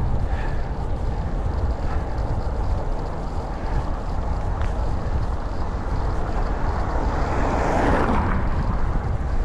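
Wind buffeting the microphone in a steady low rumble, with a brief rushing swell of noise about eight seconds in.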